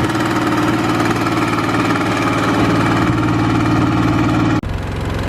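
Engine running steadily at a constant speed. About four and a half seconds in, the sound changes abruptly to a deeper engine hum.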